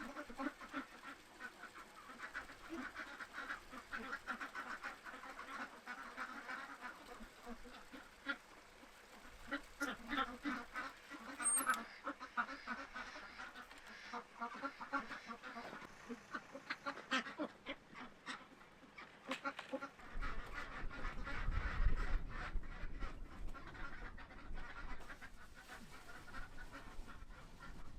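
Farm ducks quacking repeatedly, a flock calling on and off. From about two-thirds of the way through, a low rumble of wind on the microphone joins in.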